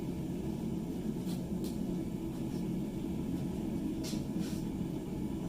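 Forge running with a steady low rushing noise, with a few faint light ticks over it.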